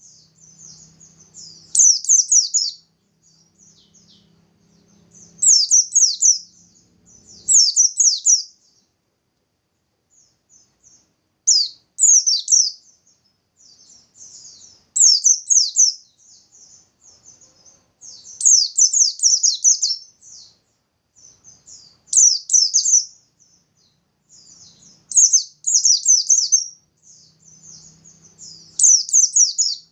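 Pleci bustomi (a white-eye) singing hard: loud bursts of rapid, high chirping trills about every three seconds, with softer twittering between them.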